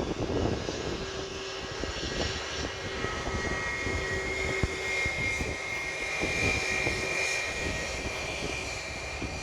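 Jet airliner's engines running, a steady high whine over a low rumble.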